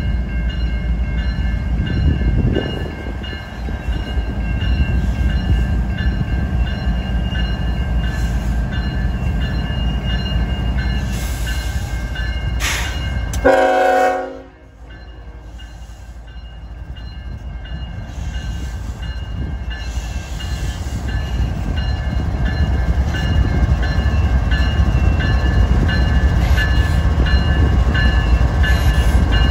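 Train running by with a steady heavy rumble, cut short about halfway by a brief blast of a locomotive's air horn. The sound then drops away, and another train's rumble builds steadily as it approaches.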